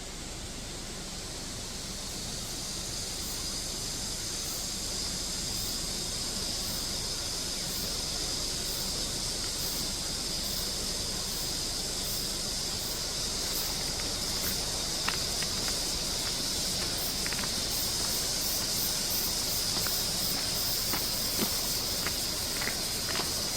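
Cicadas droning in a steady high-pitched chorus over the rush of a mountain stream, with scattered light clicks in the last few seconds.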